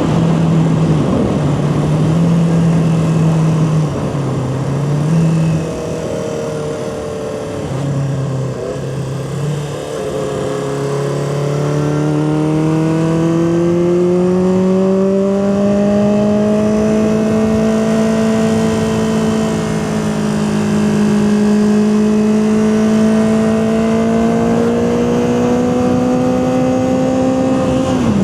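Honda CB400/4 Super Sport's air-cooled four-cylinder engine under way. The engine note dips and recovers a few times in the first ten seconds, then rises steadily through one long pull from about ten seconds in, and falls abruptly at the very end.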